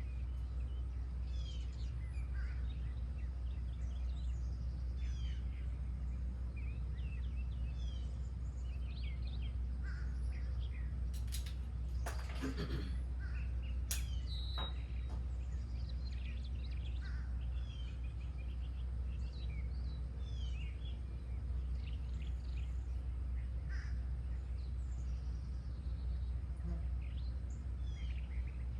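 Many birds singing and chirping in short, overlapping calls over a steady low hum. A louder, harsher sound comes a little before the middle, then a sharp click.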